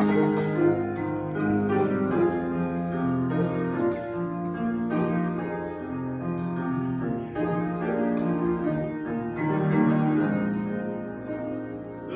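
Piano introduction to a gospel song: slow sustained chords played on a keyboard before the vocal comes in.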